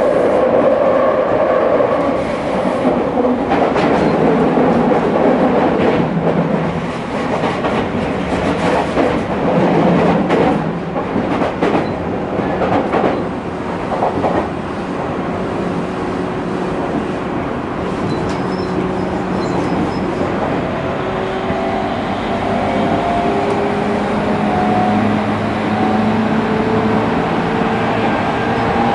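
Running noise inside a Tokyu 5000-series motor car, an electric train with IGBT VVVF inverter control. In the first half the wheels knock over rail joints. After that, the traction motors' inverter whine gradually climbs in pitch as the train gathers speed.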